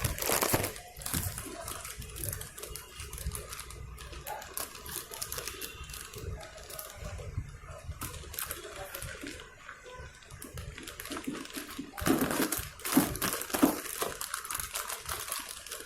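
Irregular small clicks, taps and plastic rattles of a water inlet valve being fitted by hand into a front-load washing machine, busier and louder for a couple of seconds near the end.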